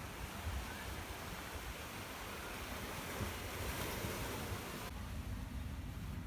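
Surf washing on a beach, an even hiss that drops away suddenly about five seconds in, with wind rumbling on the microphone throughout.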